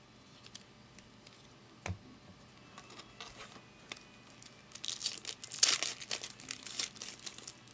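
A foil trading-card pack being torn open, its wrapper crinkling, starting about five seconds in after a single light click.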